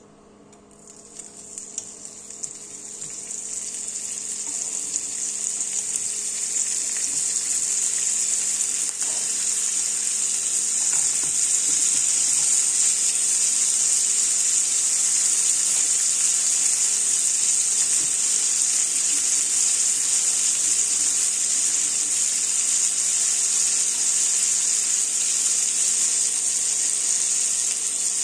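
Sliced red onion and diced ham frying in oil with rosemary in a nonstick pan: a sizzle that starts about a second in, with a few crackles, and builds over several seconds into a steady loud hiss. A faint steady hum runs underneath.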